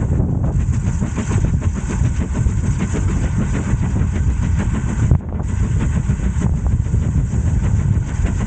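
Heritage train running: a loud, steady rumble with a hiss on top, dipping briefly about five seconds in.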